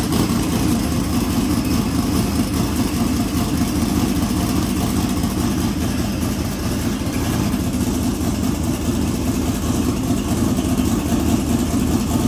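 Twin-turbo Ford V8 in a drag-race car idling steadily at about 1,160 rpm, a lumpy, even low-pitched running sound.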